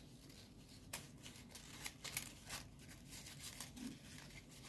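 Folded paper origami units rustling faintly with a few light crisp ticks as they are handled and slotted together.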